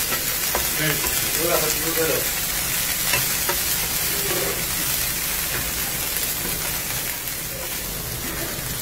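Chopped onions, spring onions and onion flowers sizzling steadily as they fry in oil in a black pan, with a few short clicks as a spatula stirs them.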